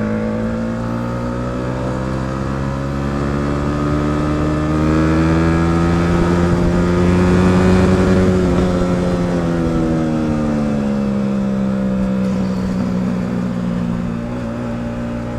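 Single-cylinder sport motorcycle engine pulling hard in one gear, its revs climbing steadily for about eight seconds and then falling away as the throttle eases off.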